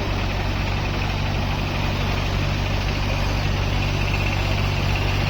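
Diesel tractor engine running steadily at an even speed, a constant low drone with no change in pitch.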